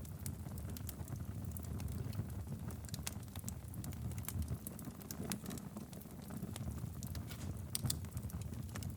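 Wood fire crackling in a fireplace: a steady low rumble of flames with many small, irregular pops and snaps.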